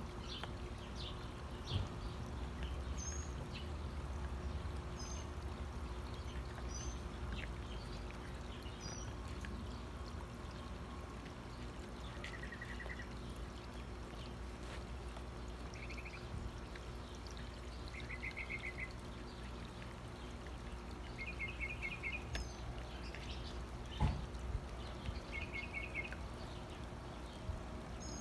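Small birds chirping, with short high chirps and several quick trills scattered through, over a steady rushing background noise. There are two sharp clicks, one near the start and a louder one near the end.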